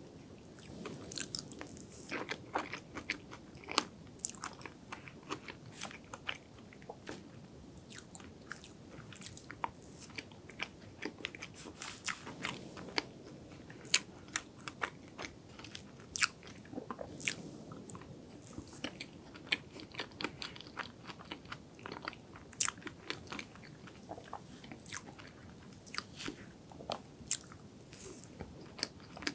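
Close-miked chewing of soft chocolate and strawberry cream cake, with many sharp wet mouth clicks and smacks.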